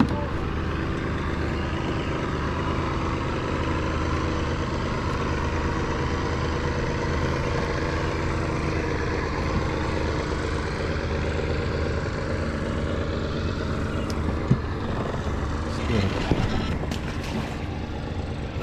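An engine running steadily, a low even hum, with a few light knocks near the end.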